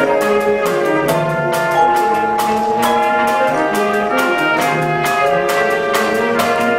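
School concert band playing a piece, with brass to the fore over held chords and a steady percussion beat.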